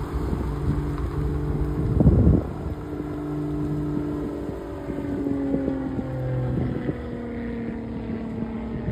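A steady engine drone with a stack of even tones that slowly fall in pitch as it passes. A loud gust of wind hits the microphone about two seconds in.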